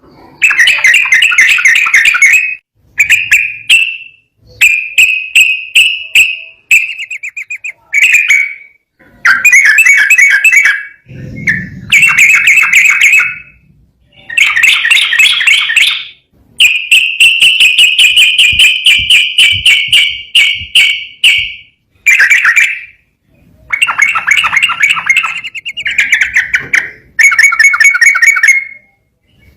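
Yellow-vented bulbul (trucukan) singing in runs of rapid, chattering phrases, each one to a few seconds long with short breaks between, including one long unbroken phrase a little past halfway. A dull low thump sounds once, at about the one-third mark.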